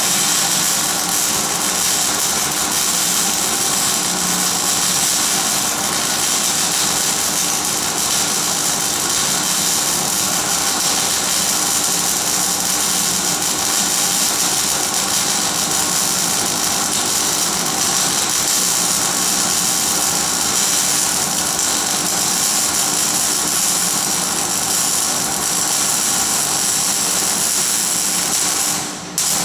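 Arc welding: the arc's steady hissing crackle runs unbroken, with a steady hum beneath it, and cuts off abruptly near the end as the arc is broken at the end of the bead.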